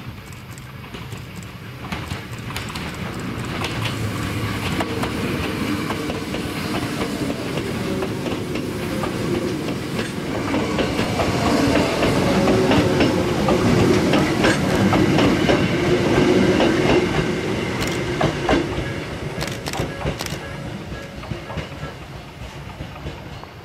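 Hakone Tozan Railway 3000-series electric train passing close by: the running gear and wheels on the rails build as it approaches, are loudest as it goes past, and fade as it moves away, with sharp wheel clicks over the rail joints near the end.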